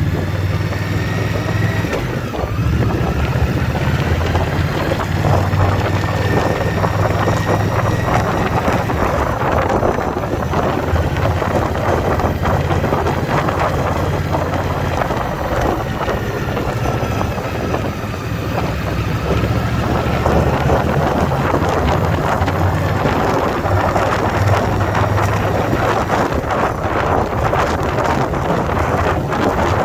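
2021 Indian Scout Bobber Twenty's liquid-cooled V-twin running steadily under way, with wind buffeting the microphone. The engine note and loudness dip briefly about two-thirds of the way through.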